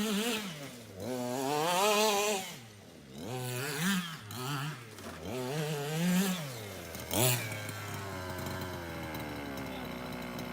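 Small two-stroke petrol engine of an FG large-scale RC monster truck revved in a series of throttle blips, its pitch rising and falling, then settling to a steady idle after a last short blip about seven seconds in.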